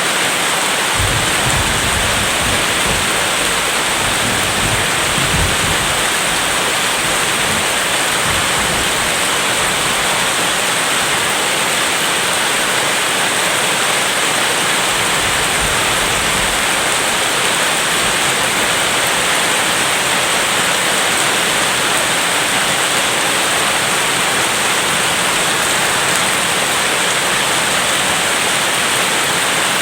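Heavy rain falling in a steady hiss, with a low rumble of distant thunder rolling through the first half.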